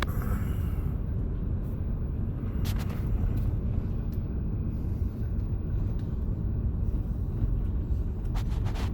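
Car or truck rolling slowly along a road, a steady low engine and road rumble heard from inside the cab.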